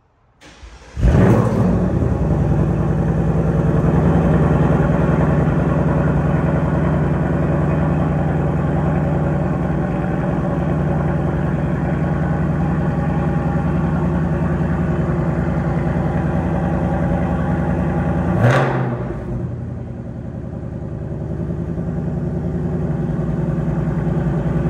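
2024 Ford Mustang Dark Horse's 5.0-litre V8 starting about a second in, through a Corsa double H-pipe with the exhaust in normal mode. It flares up and settles into a steady, fast idle. About eighteen seconds in there is one quick blip of revs, after which the idle runs lower and quieter.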